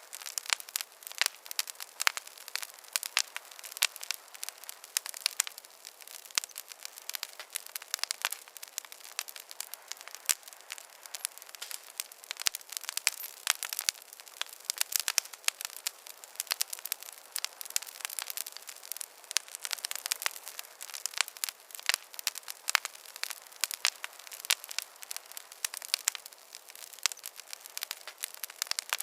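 Wood fire crackling in a fireplace: a steady stream of irregular sharp pops and snaps over a faint hiss.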